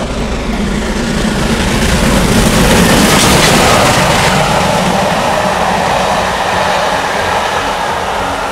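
A train passing by, rising to its loudest about three seconds in, then slowly fading.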